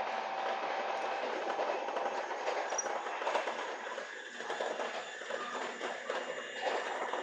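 Electric train running along the track, heard from inside the front of the train: a steady noise of wheels on rails.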